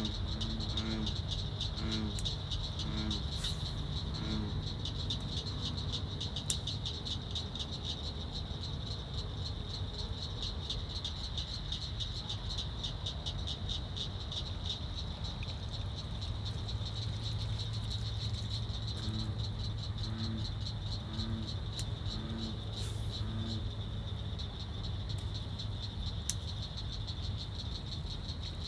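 Night-time pond chorus: insects trill steadily in a high, fast-pulsing buzz. A frog calls in a series of short, low croaks, about two a second, near the start and again about two-thirds of the way through.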